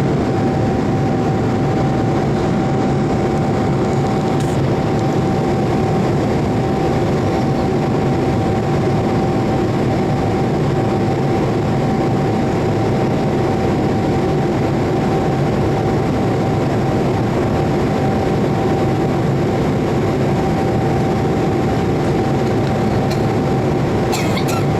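Steady in-flight noise of a Boeing 787-8 with Rolls-Royce Trent 1000 engines: an even rush of engine and airflow with one constant whine-like tone, and a few faint clicks near the end.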